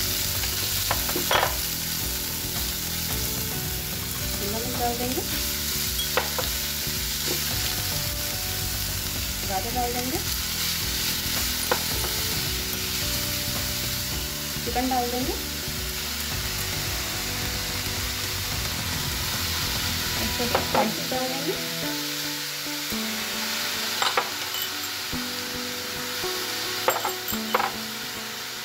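Chopped onion and garlic, then vegetables, sizzling in hot oil in a pan, stirred with a spatula that taps and scrapes against the pan every few seconds.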